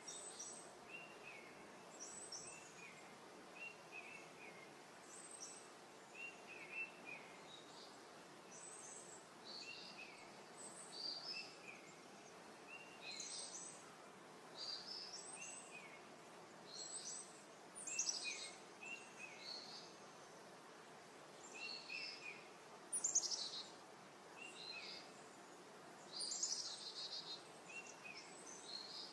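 Birds chirping and calling over and over, short high notes coming every second or two, over a faint steady hiss of outdoor background noise.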